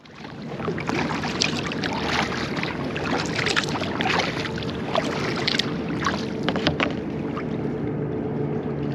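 Kayak on open water: water splashing and dripping in short, irregular bursts, over steady water and wind noise with a faint low hum.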